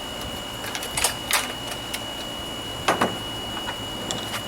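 Sharp clicks and clinks of hand tools on lawnmower parts, a handful of them, with louder ones about a second in, a moment later, and near three seconds in. A faint steady high-pitched tone runs underneath.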